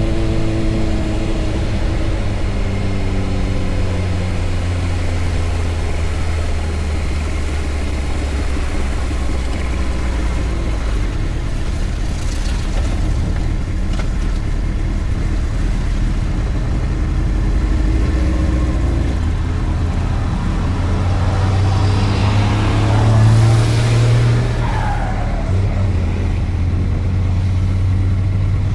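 Motorcycle engine running on the move, under steady road and wind noise. The engine note falls away near the start, and a louder swell with pitch glides comes about three-quarters of the way through.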